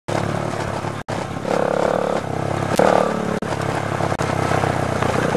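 Dirt bike engine running, surging louder as it revs about a second and a half in and again near three seconds. The sound cuts out for an instant three times.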